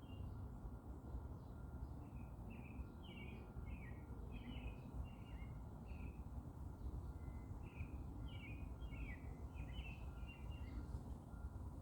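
Small songbirds chirping, with quick runs of short, high chirps and a brief lull about halfway through. A steady low rumble of background noise lies underneath.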